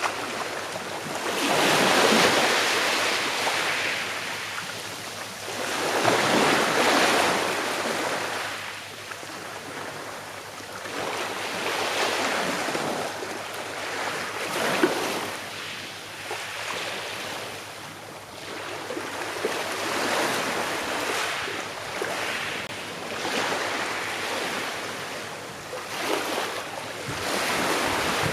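Small sea waves breaking gently on a shore, a rushing wash that swells and fades every four to six seconds.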